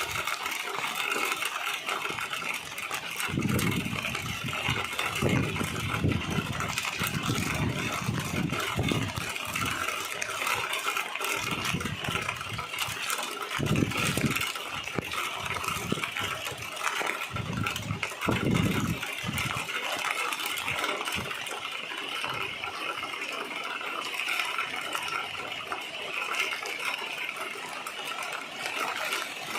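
Street traffic: vehicles passing one after another over a steady hiss, with several low swells in the first two-thirds as cars go by.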